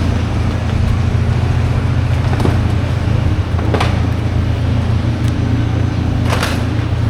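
A vehicle engine runs with a steady low hum, and a few sharp knocks sound over it, about two and a half, four and six seconds in.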